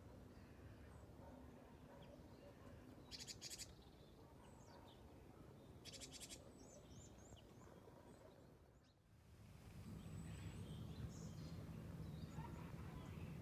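Faint outdoor ambience with scattered bird chirps and two short, rapid bird trills. After a brief drop-out a little past the middle, a low steady hum comes in under the chirps.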